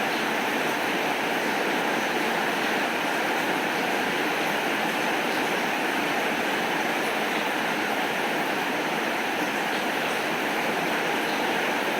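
Heavy rain falling steadily: a dense, even hiss without a break or any thunder.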